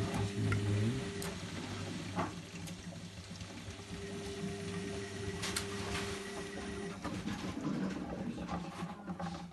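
Zanussi Lindo 100 washing machine draining after the first rinse: the drain pump hums steadily as water is pumped out, with a few light clicks.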